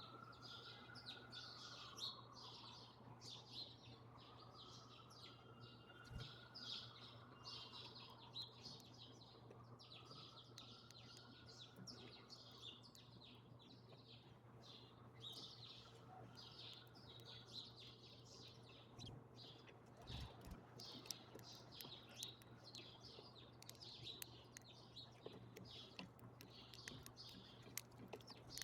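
A flock of small birds chirping and twittering continuously, faint. A fainter wavering tone rises and falls every few seconds through the first half.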